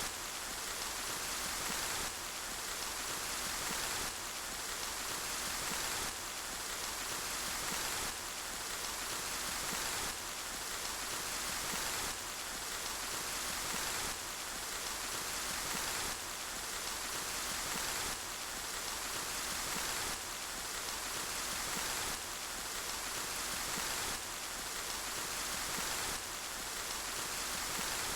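Steady rain falling, an even hiss of many drops. It swells slightly and drops back every two seconds.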